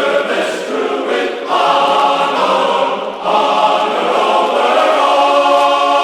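Background choral music: a choir singing slow held chords, the chord changing about a second and a half in and again after about three seconds.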